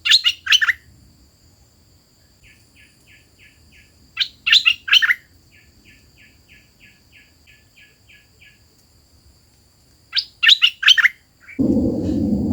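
Decoy songbird (the 'hoạch thơm' used as a lure in a trap) singing: three loud bursts of quick, high notes, with runs of soft, evenly spaced short notes, about two a second, between them. A loud low rumble starts near the end.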